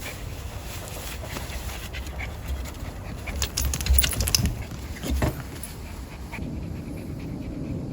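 A Pomeranian panting, with scattered light clicks and knocks, thickest and loudest around the middle.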